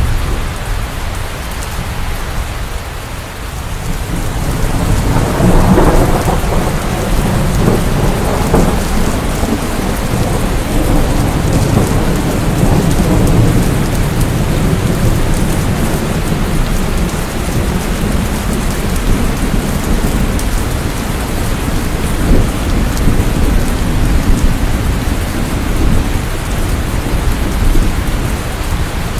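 Steady heavy rain with a low rumble of rolling thunder. The thunder swells about five seconds in and slowly fades.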